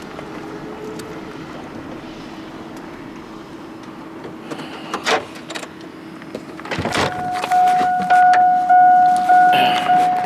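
A vehicle's reversing alarm beeping, a steady high tone pulsing about one and a half times a second, starting about two-thirds of the way in and louder than anything else. Before it, an engine runs with a steady low hum, with a couple of knocks.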